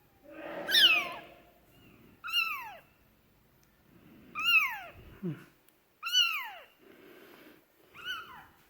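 A young kitten mewing, five high, thin cries about every one and a half to two seconds, each falling in pitch.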